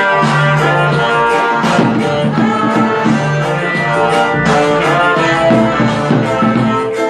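Loud recorded music with brass and some singing, played through a car audio system.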